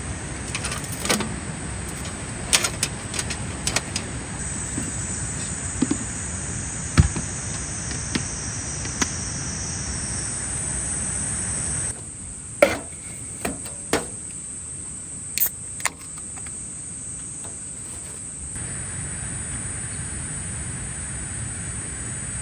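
Summer insects shrilling steadily at a high pitch, with scattered sharp knocks and clicks of things being handled; the two loudest knocks fall about seven and twelve and a half seconds in.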